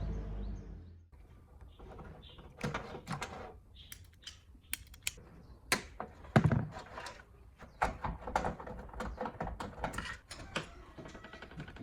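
Irregular clicks, taps and short scrapes of hard parts being handled, typical of a piece of equipment being taken apart by hand, with one heavier thump about six and a half seconds in.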